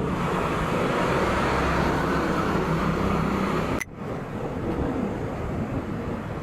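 Motorcycle engine running steadily under a rush of wind noise on the microphone, with an abrupt break about four seconds in, after which it carries on a little quieter.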